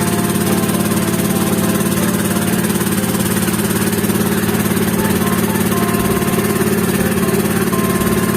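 Small motorboat engine running steadily at an even speed, with a dense rapid pulse.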